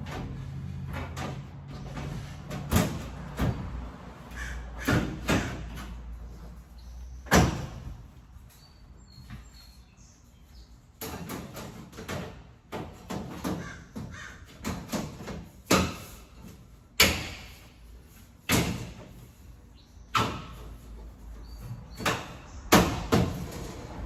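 A series of irregular knocks and clunks, like doors or panels being handled and shut. A steady low hum runs underneath for the first several seconds and stops at a loud knock.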